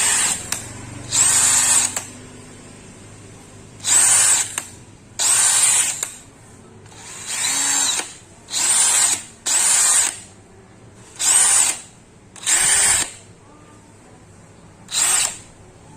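DeWalt DCD796 cordless brushless hammer drill run in short bursts with no load, about nine quick trigger pulls. Each burst spins up to a high whine and winds down within a second.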